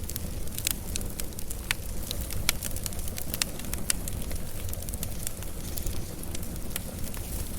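Campfire burning: a steady low rumble of flames with frequent irregular crackles and pops of burning wood, a few of them sharp and loud.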